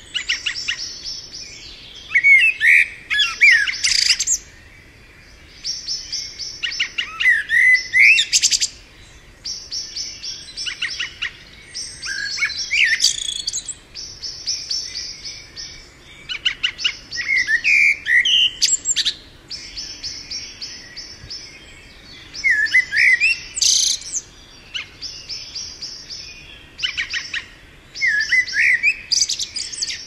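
Songbirds chirping and trilling in high-pitched phrases that repeat every few seconds, with short pauses between them.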